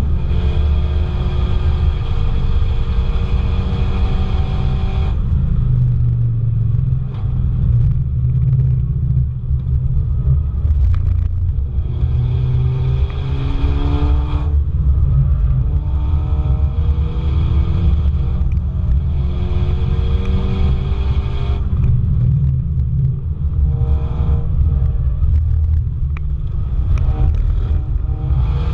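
Car engine driven hard on a race track, its pitch climbing again and again as it accelerates through the gears, with spells of lighter throttle now and then.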